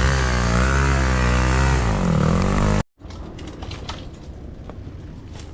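Motorcycle engine running loud, its pitch wavering and dipping as it is revved. It cuts off abruptly about three seconds in, leaving quiet outdoor background with a few faint clicks.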